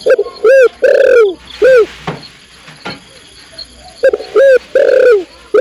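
Spotted dove (tekukur) cooing loudly: two phrases of low, arched coos, each two short notes, a longer drawn-out one and a short closing note, the second phrase starting about four seconds in. Said to be a female calling to the male.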